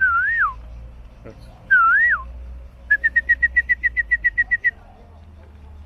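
Clear, loud whistling: two short phrases that waver up then drop away, followed by a quick run of about fifteen even notes at one pitch.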